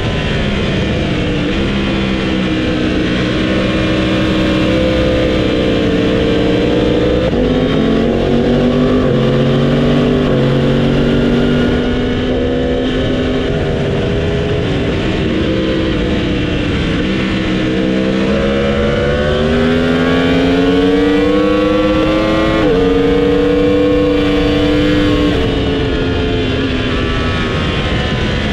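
Motorcycle engine being ridden hard on a racetrack, its pitch climbing under acceleration and dropping in steps through gear changes, over constant wind rush.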